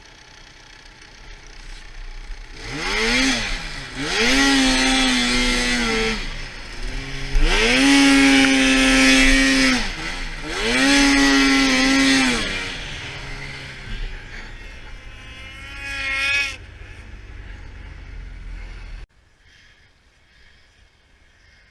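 2013 Arctic Cat F800 RR snowmobile's two-stroke twin engine being run hard: several hard throttle pulls, each climbing in pitch to a high, held rev and dropping back, with lower running in between. The sound cuts off abruptly about two-thirds of the way through.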